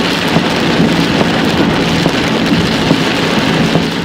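Heavy rain hitting a vehicle: a loud, dense, steady patter of drops, with a low steady hum under it.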